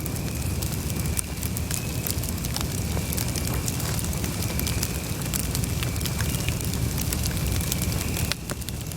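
Wood campfire burning: many irregular crackles and pops over a steady low rumble, which eases slightly near the end.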